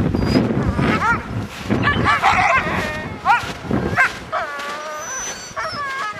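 Several sled dogs barking and yipping in quick, overlapping calls, with a few longer drawn-out whines near the end.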